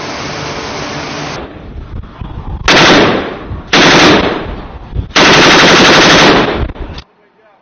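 Automatic weapon firing in three loud bursts, the last and longest about a second, after a steady rumble in the first second and a half; it cuts off suddenly near the end.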